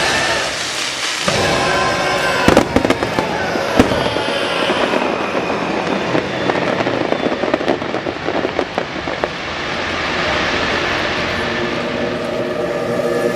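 Fireworks going off: sharp bangs twice in the first few seconds, then dense crackling from the aerial shells.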